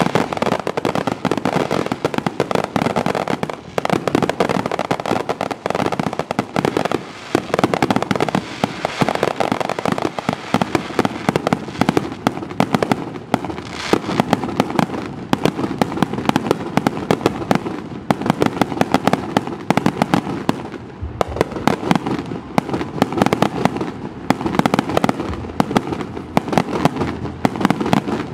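Aerial fireworks display: a dense, continuous barrage of rapid, overlapping bangs, many each second.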